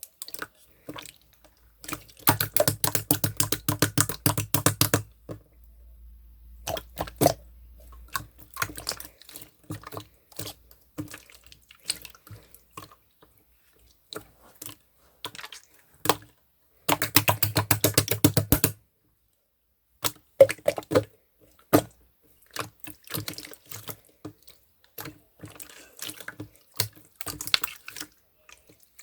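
Clear slime being worked by hand, making wet popping clicks. Two dense runs of rapid clicks, one a couple of seconds in and one past the middle, with scattered single pops between.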